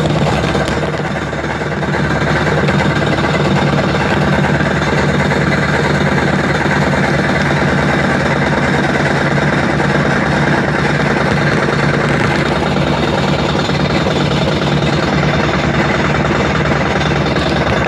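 Washing machine running, with a steady motor hum and a fast, continuous rattling vibration, dipping briefly about a second in.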